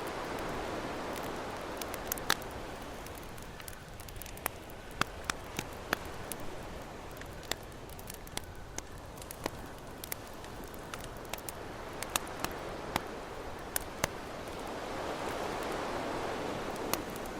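Campfire crackling with sharp, irregular pops over ocean waves washing ashore; one wave swells near the start and another builds and recedes near the end.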